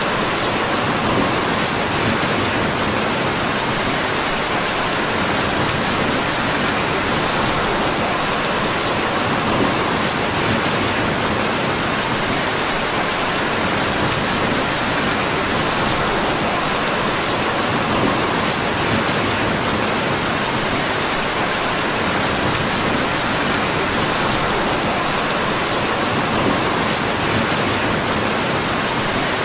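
Steady, even rainfall, with a few faint sharp ticks here and there.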